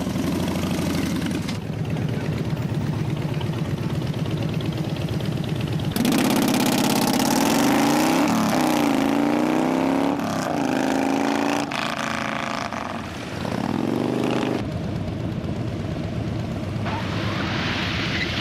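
Motorcycle engines running, with the revs rising and falling several times in the middle; the sound changes abruptly a few times.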